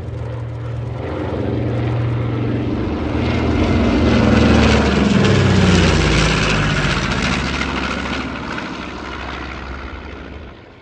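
Propeller-driven aircraft making a low flypast. Its engine note swells to a peak near the middle, drops in pitch as it passes overhead, then fades away.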